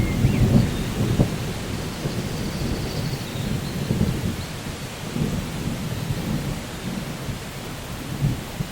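Rainforest ambience: steady rain with a low rolling rumble of thunder that swells and fades. A few faint bird whistles sound in the first few seconds.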